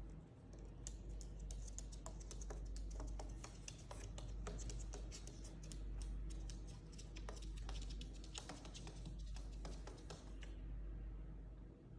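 An Indian ringneck parakeet's claws clicking and scratching on a hard surface as it walks: many irregular light taps, starting about a second in and stopping shortly before the end, over a steady low hum.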